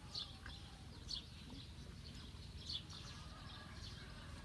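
Faint chirping of small birds: short high calls every second or so, over a low steady rumble.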